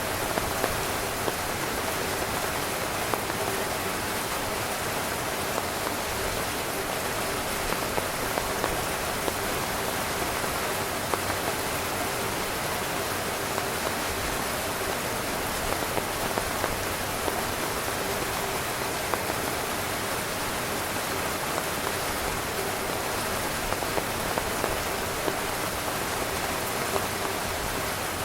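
Steady rain falling on a tent, a dense even patter of drops on the fabric.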